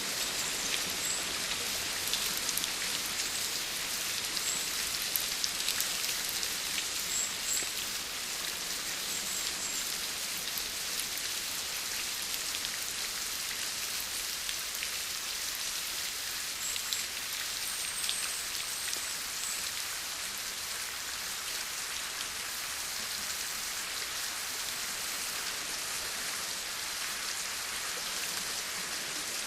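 Steady rain falling, a dense even hiss of drops with many small individual drop ticks through it.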